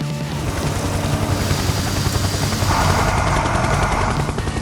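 Helicopter sound effect: fast rotor chop over a steady engine drone, with a rushing hiss joining for over a second in the middle.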